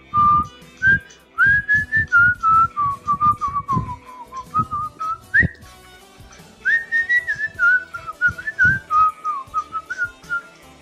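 A person whistling a song melody, the tune gliding up and down in short phrases, over low thumping percussion. It is a whistled stand-in for the original song.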